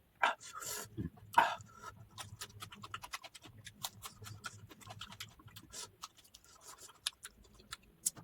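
A person eating close to the microphone: chewing with many quick wet mouth clicks and smacks, a few louder ones in the first second and a half.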